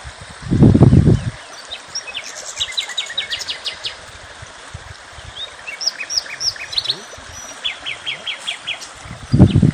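Small songbirds chirping and trilling: quick runs of short high notes and a few slurred whistles. A loud low rumble comes about half a second in, and another starts just before the end.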